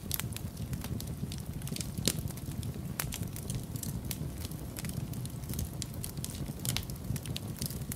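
Wood fire in a fireplace crackling, with irregular sharp pops and one louder pop about two seconds in, over a steady low rumble.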